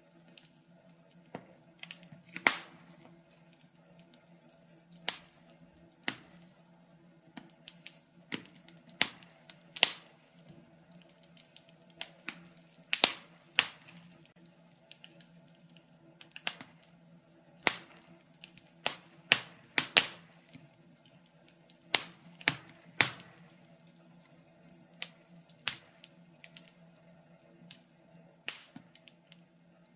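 Wood fire in a fireplace crackling: irregular sharp pops and snaps, several a second at times, over a faint steady low hum.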